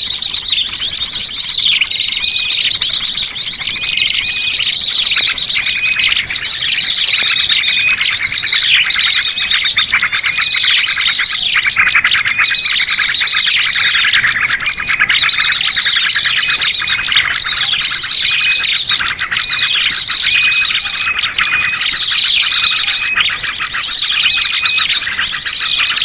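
A bird-lure (pikat) recording: many small birds chirping, trilling and whistling at once in a dense, continuous, high-pitched chatter, played loud and without a break.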